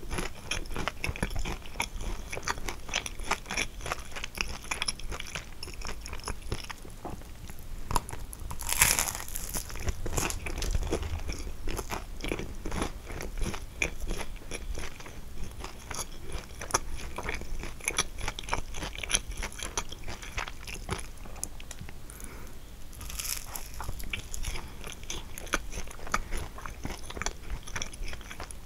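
Close-miked chewing and biting of a kouign-amann, its crisp caramelized crust crunching and crackling continually. Two louder crunches come about nine seconds in and again around twenty-three seconds in.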